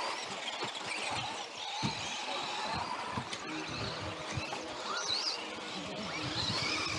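Electric motors of RC off-road buggies whining, the pitch rising and falling with the throttle, with frequent knocks and clatter as the cars run over the dirt track.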